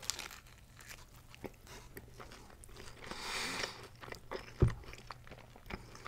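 Close-miked eating of an Italian sub sandwich: a bite through the crusty roll, then chewing with small crunches and wet mouth clicks. A short breath out comes about halfway through, and a single low thump follows a second later.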